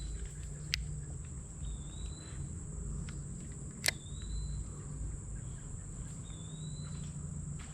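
A bird repeats a short rising whistled call about every two seconds over a steady high insect drone, with two sharp clicks, one about a second in and a louder one about four seconds in.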